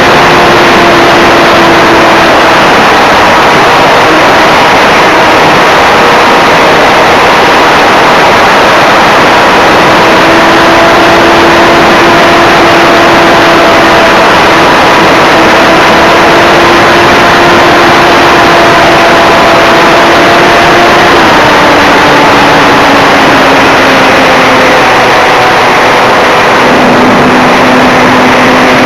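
Electric brushless motor and propeller of an RC Cessna 182 model in flight: a steady whine under loud wind rushing over the onboard camera's microphone. The motor's pitch steps down about 21 seconds in and again a few seconds later.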